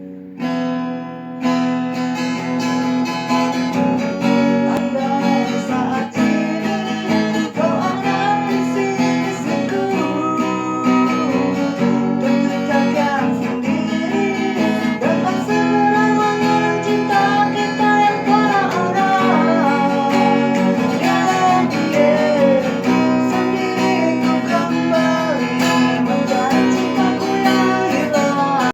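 A person singing to a strummed acoustic guitar, the voice carrying a wavering, sliding melody over the chords.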